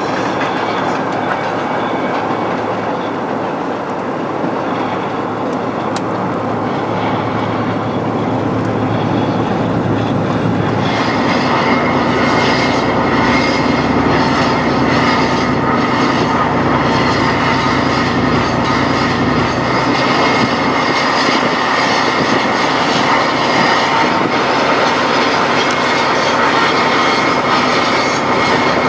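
Running noise of a train at speed, heard from a moving carriage: steady rumble of wheels on rail with clickety-clack over the joints. About 11 s in the sound grows fuller and louder, with an added steady hum.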